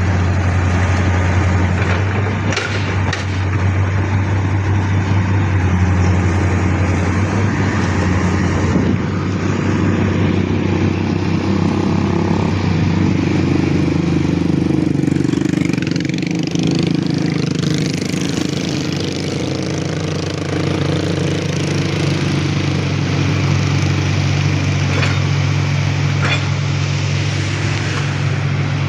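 Heavy diesel engine running steadily with a deep, continuous hum; its tone shifts partway through.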